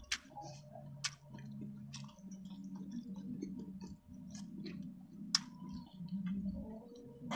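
Close-up chewing of a mouthful of rice and food, eaten with the mouth closed, over a low steady hum. Sharp short clicks come roughly once a second, the loudest about five seconds in.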